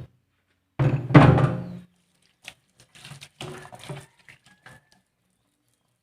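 A heavy thunk about a second in, then a run of lighter knocks and clinks as kitchenware is handled during cleaning up.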